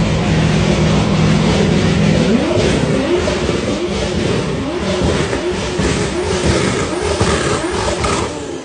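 BMW M4 (G82) twin-turbo inline-six with a modified exhaust, running steadily for about two seconds and then revved in a string of quick throttle blips, roughly one a second, before settling near the end.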